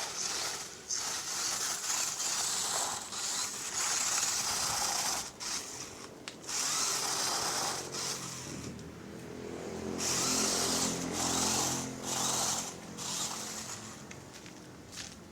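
RC rock crawler's brushed electric motor and geared drivetrain whirring in repeated bursts, starting and stopping as the throttle is worked. A lower pitched hum joins in partway through, and the sound fades near the end.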